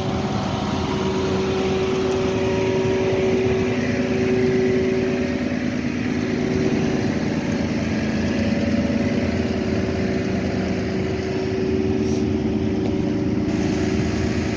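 A vehicle engine running steadily nearby, a droning hum holding a few steady tones.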